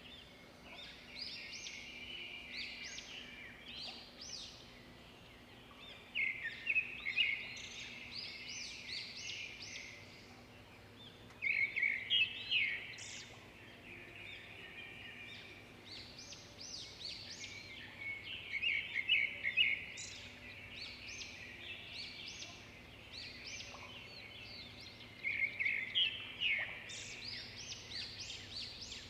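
Songbirds singing: clusters of quick, high chirping notes in phrases that come every few seconds, the loudest about twelve and twenty-six seconds in.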